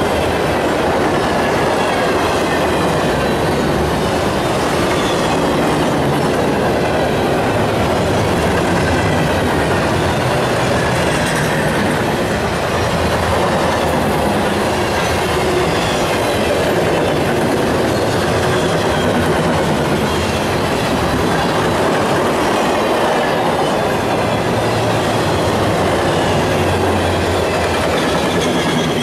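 CSX freight train's cars rolling past at steady speed: a continuous, even rumble of steel wheels on rail, with faint high wheel squeal gliding over it.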